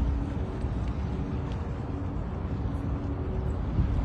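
New York City subway train running: a steady low rumble with faint humming tones above it.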